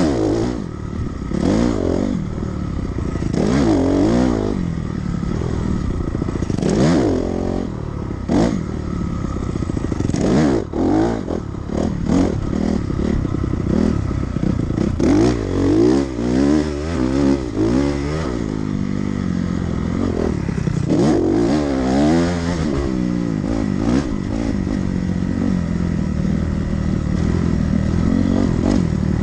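Dirt bike engine being ridden hard around a motocross track, its pitch rising and falling again and again as the throttle is opened and shut through the gears. Short clattering knocks come through in the middle stretch.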